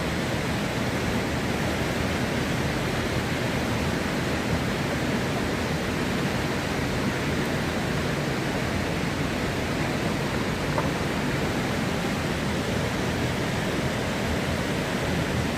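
Steady rush of a waterfall's falling water, an even roar with no breaks.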